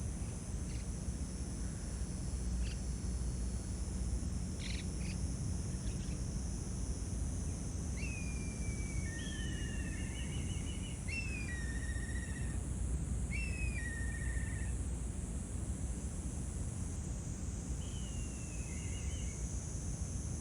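Outdoor nature ambience: a steady high-pitched insect-like drone under a low rumble, with a few faint ticks early on and a handful of short, falling chirping calls from some animal, several in a row from about eight seconds in and one more near the end.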